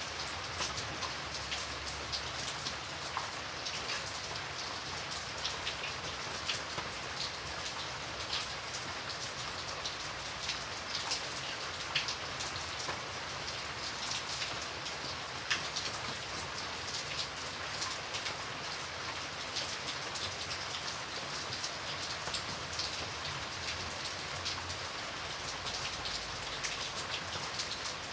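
Steady rain falling, with a dense hiss and many separate drops clicking close by.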